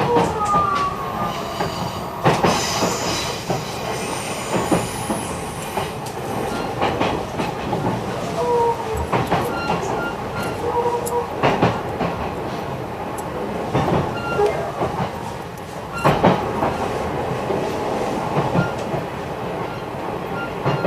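Running noise of an E129-series electric train heard on board: a steady rumble with frequent sharp rail clicks, and brief wheel squeals near the start and again about nine to eleven seconds in.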